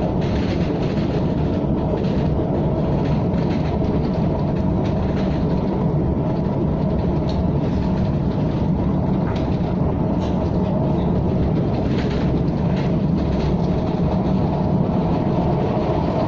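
KTM ETS electric train running at speed, a steady rumble with faint scattered clicks of the wheels on the track.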